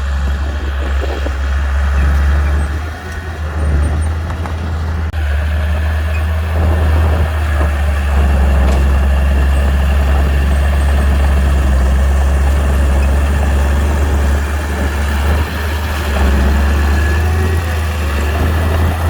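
Heavy earthmoving machinery's diesel engine running steadily with a deep, continuous low rumble.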